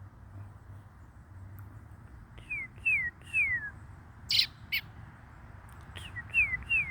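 A bird calling: a series of short whistled notes, each sliding down in pitch, three in quick succession, then two sharp clicks, then three more notes near the end.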